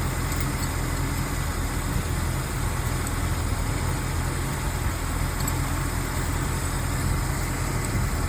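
Corvette engine idling steadily, its ignition timing just advanced from about 2 degrees, where it had been spark knocking and overheating, toward 10 degrees.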